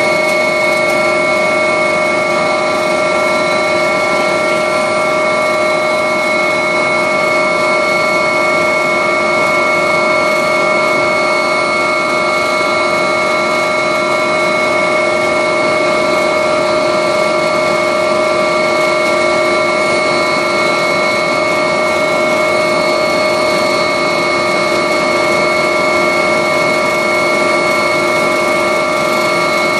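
Agusta helicopter in flight, heard from aboard: a loud, steady mix of turbine and rotor-gearbox whine, several high tones held constant over a rushing hiss, with no change in power.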